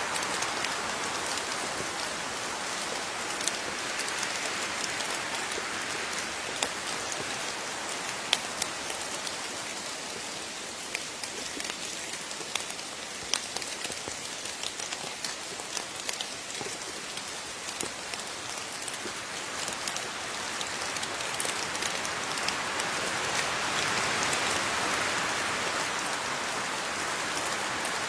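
Steady rain falling, with many individual drops pattering sharply on a surface. The rain swells slightly in the last few seconds.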